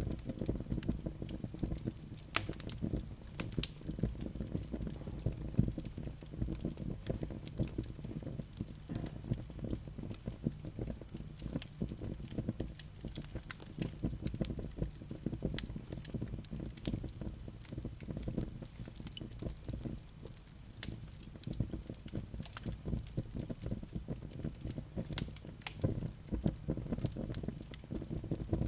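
Wood fire burning in a fireplace: a low steady rumble of flames with frequent sharp crackles and pops from the burning logs, scattered unevenly.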